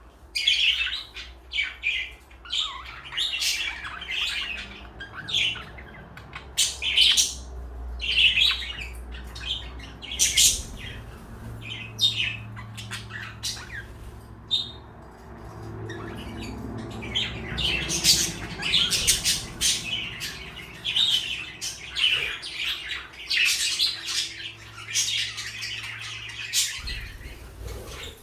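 Pet parakeets chirping, with some sharper squawks among the calls. The calls come in rapid runs, thin out briefly midway, then grow busier.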